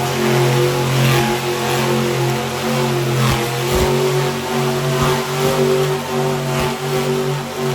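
Monster truck engine running at high, nearly steady revs, with a few brief low thuds.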